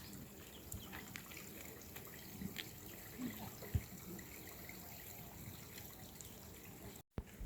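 Faint water dripping and trickling, with a few scattered light drip ticks.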